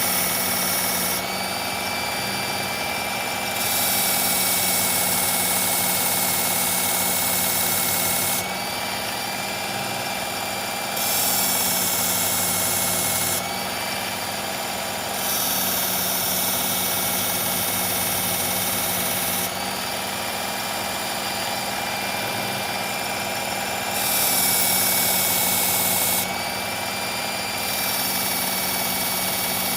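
Electric belt knife sharpener running with a steady motor whine while a hard-steel knife blade is drawn along the abrasive belt in repeated passes, each pass adding a louder grinding hiss for a few seconds.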